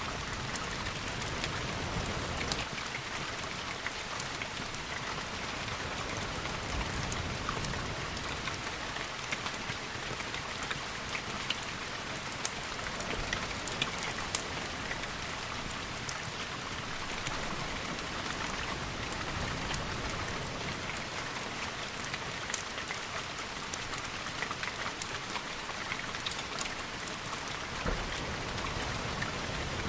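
Steady rain falling, with many sharp scattered taps of individual drops over an even hiss.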